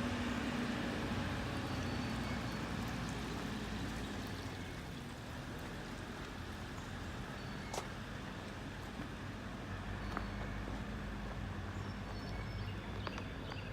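Backhoe's diesel engine running steadily as the machine travels along a street. It grows fainter partway through and a little louder again near the end, with a single sharp click about eight seconds in.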